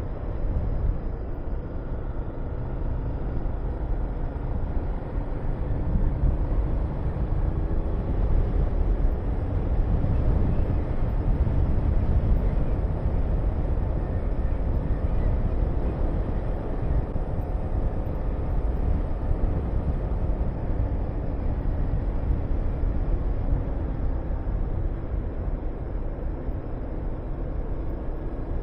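Honda VTR250 V-twin motorcycle engine running while riding, its pitch drifting gently up and down, under heavy wind rush on the microphone.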